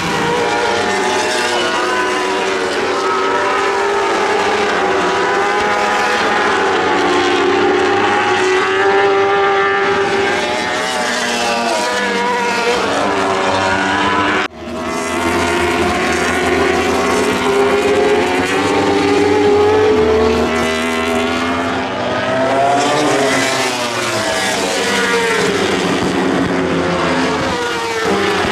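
World Superbike racing motorcycles' four-cylinder engines at high revs, their pitch rising and falling through gear changes, with several bikes heard together. The sound drops out briefly about halfway through.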